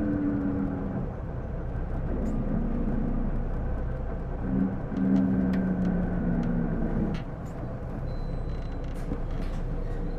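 Isuzu PJ-LV234L1 city bus running, heard from inside. A whine rises in pitch in steps as the bus pulls away and stops short about seven seconds in. This is the abnormal noise that sounds like an automatic transmission, which the uploader suspects comes from the transmission. Several light clicks follow near the end.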